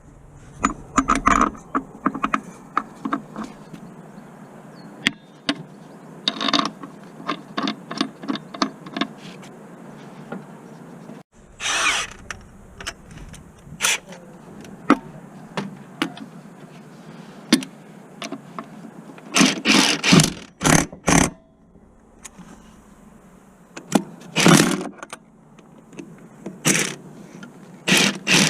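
Workshop tool noise: metallic clicks and knocks, with a few short bursts of a power tool.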